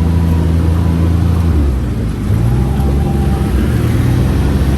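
UTV engine running while under way, a steady low drone whose note changes about two seconds in, after a brief dip in loudness.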